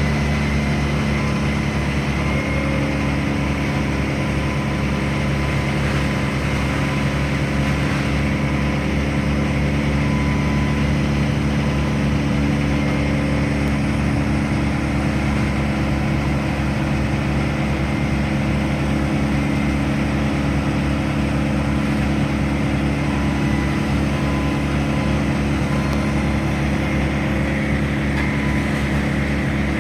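A large engine running steadily at an even speed, with no revving.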